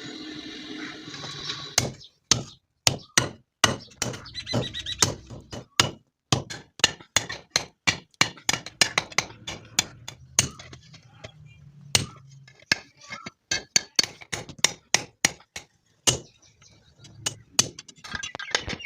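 Hammer blows, sharp and clinking, struck in irregular runs of up to about three a second with short pauses between runs, typical of hammering during hand-forging of a blade. A steady noise runs through the first two seconds before the blows begin.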